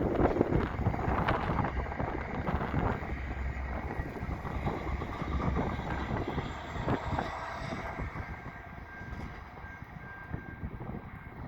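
Commuter train of an F59PH diesel locomotive and multilevel coaches rolling over a bridge, a steady rumble with some wheel clacks in the first few seconds, fading as the train moves away.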